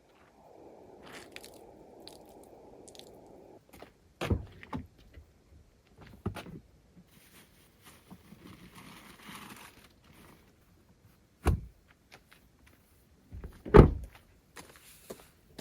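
Scattered sharp knocks and clunks of food-prep handling, about five, the loudest near the end, with a low steady hum at the start and a brief soft hiss in the middle.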